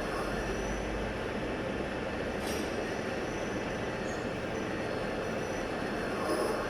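Radial drill running, a steady mechanical noise with brief faint high squeals, and a sharp click about two and a half seconds in.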